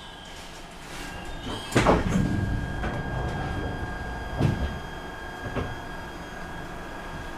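Glasgow Subway train's sliding doors opening with a loud thud about two seconds in, followed by a few lighter knocks, over a steady high electrical tone.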